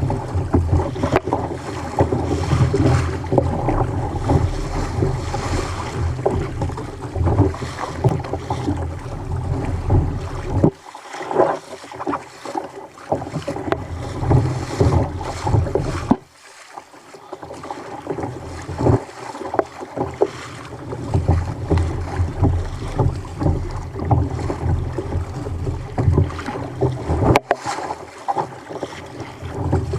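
Wind buffeting the microphone, with water sloshing and slapping against a fishing kayak in rough sea. The low rumble drops away briefly twice, about eleven and sixteen seconds in.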